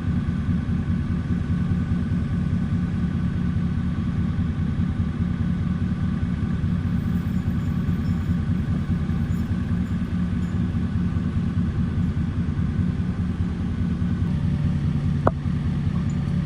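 A motor vehicle engine idling steadily, a low even hum, with one short click about 15 seconds in.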